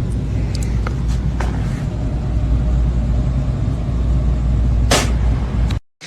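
A vehicle engine running with a steady low rumble, with a few light clicks and one short, sharp hiss about five seconds in.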